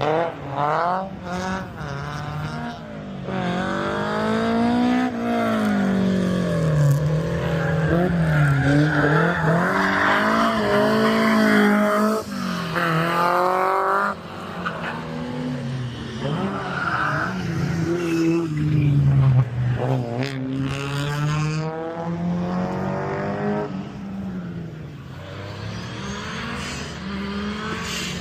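Rally car engines revving hard, the pitch climbing and dropping again and again as they go through gear changes and lift off.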